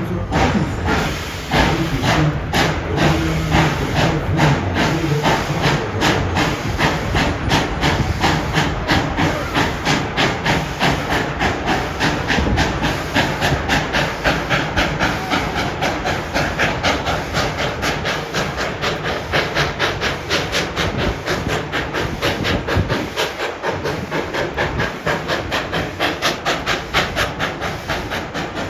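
Steam locomotive, Tweetsie Railroad's Engine 12, working as it pulls the train, its exhaust chuffing in a steady beat of about three a second over a continuous hiss of steam.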